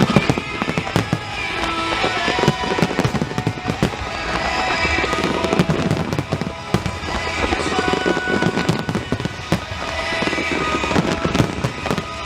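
Aerial fireworks bursting and crackling in rapid, continuous succession over music played with the show.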